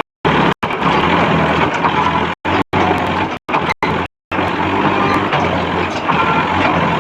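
Massey Ferguson 7250 DI tractor's diesel engine running, a steady low drone under heavy mechanical noise, cut off abruptly by several brief silent gaps.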